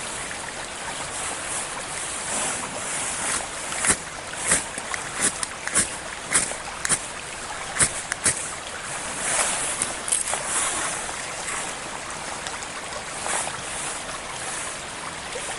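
Steady rush of a stream under a run of sharp clicks and scrapes, most of them in the middle stretch, from hands working at the unlit campfire.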